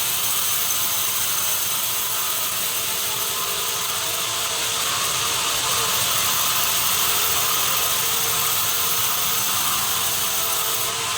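Sawmill machinery running steadily: a constant mechanical din with several steady high tones.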